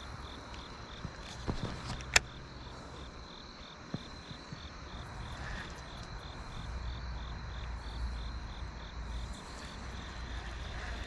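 Insects chirping steadily in an even rhythm, about three pulses a second. A single sharp click about two seconds in, and a low rumble rising in the second half.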